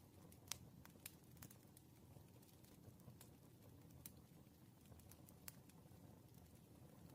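Wood fire crackling faintly: irregular sharp pops, the loudest about half a second in, over a low steady rumble.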